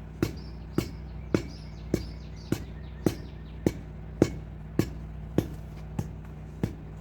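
Sharp, evenly spaced knocks, a little under two a second, over a steady low hum, with faint bird chirps in the first few seconds.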